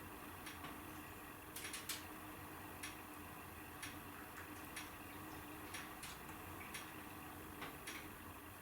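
Wood fire in a fireplace crackling: irregular sharp pops and snaps, sometimes several in quick succession, over a faint steady background.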